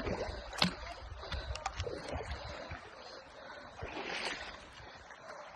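Feet wading and splashing through a shallow, rocky river, with irregular splashes and knocks over the steady rush of the flowing water.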